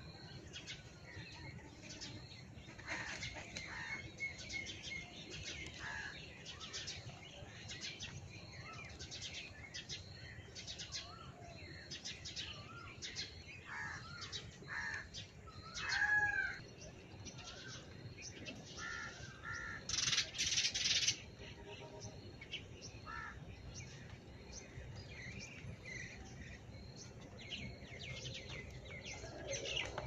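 Several birds chirping and calling, with a high chip repeated over and over and louder calls about sixteen and twenty seconds in.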